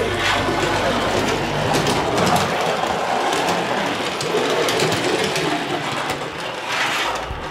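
Train running sound: a steady rumble with rail clatter, matching a toy diesel locomotive being pushed along.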